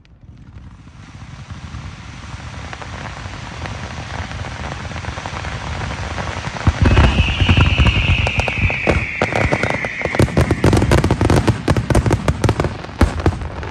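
Fireworks display: a crackling hiss builds up, then about seven seconds in a dense barrage of bangs and crackles breaks out, with a whistle falling in pitch for about three seconds.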